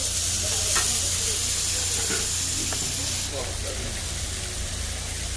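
Pork sizzling on a hot iron griddle: a steady hiss that drops noticeably about three seconds in, with a few light clicks.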